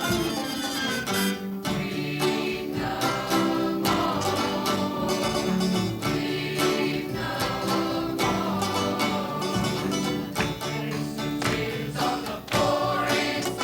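Gospel vocal group singing with guitar and band accompaniment.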